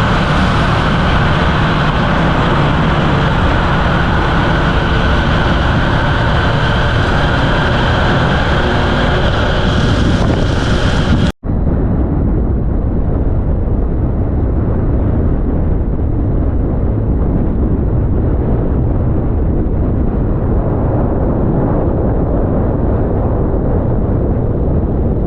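Honda XR150 single-cylinder motorbike running at road speed with steady wind and road noise. About eleven seconds in the sound cuts briefly, then comes back as a dull, muffled rumble of wind buffeting the microphone over the engine.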